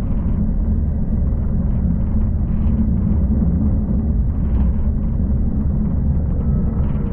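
V/Line passenger train running along the track, heard from inside the carriage: a steady low rumble with a few brief rattles.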